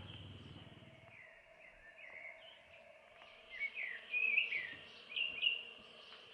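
Small birds chirping, a string of short rising and falling notes that grows louder in the second half, over a faint steady hum.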